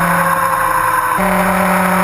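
Yamaha R1's inline-four engine running at speed under way, with wind and road noise. The engine pitch sags slightly, then steps abruptly back up about a second in, as with a downshift.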